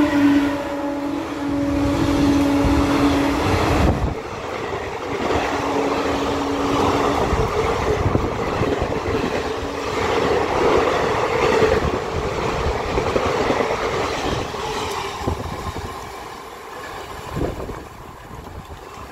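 Passenger train passing close by at speed: the locomotive's horn trails off in the first few seconds, then a continuous rumble and rush of coaches and wheels on the rails, easing off in the last few seconds.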